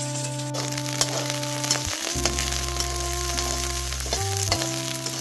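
Sliced onion, garlic and green chillies sizzling in hot oil in a pan as they are stirred, a steady hiss with scattered small crackles.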